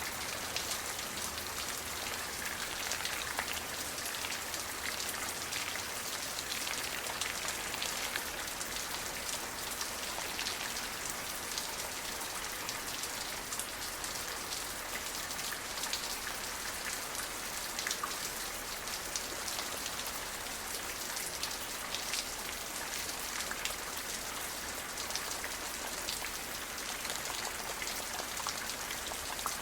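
Steady rain falling, with many individual drops ticking on a surface over an even hiss of rain.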